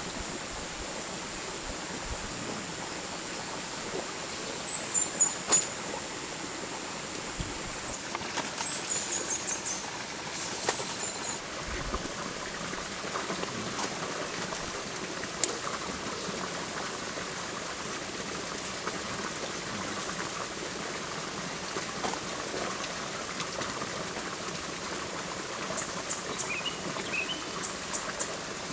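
Forest ambience: a steady rush of flowing stream water with a constant high-pitched insect drone. Short runs of quick bird chirps come a few times, around the middle and again near the end.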